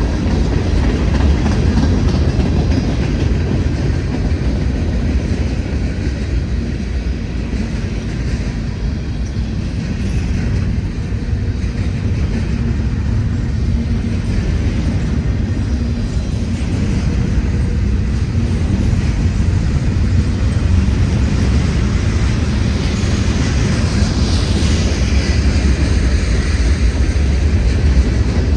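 Freight train rolling past, its railcars making a steady low rumble on the track.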